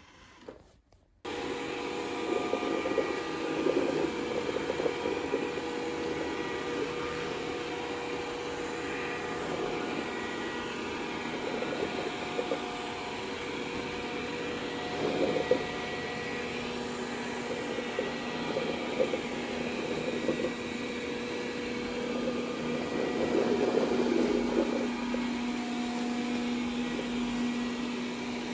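Dreame D10 robot vacuum's suction motor starting up about a second in and then running steadily, with a few brief louder surges.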